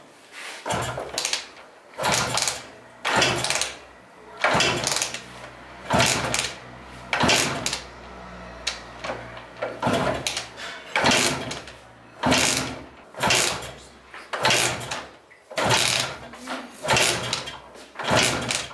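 MZ 301 single-cylinder two-stroke motorcycle engine being kicked over again and again, a stroke about every 1.2 seconds, some fourteen times, without starting. This is taken as a sign the spark plug may have oiled up.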